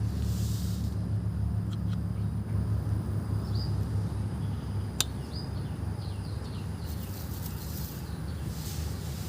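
Nakamura TB33 two-stroke brush cutter engine running steadily with a low hum, with faint bird chirps and a single sharp click about halfway through.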